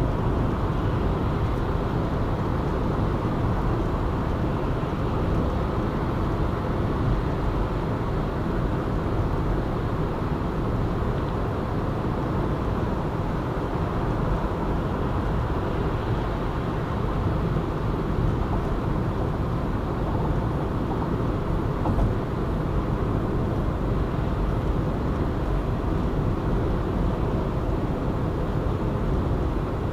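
Car driving steadily on a city expressway: continuous tyre and engine noise, with a single brief knock about two-thirds of the way through.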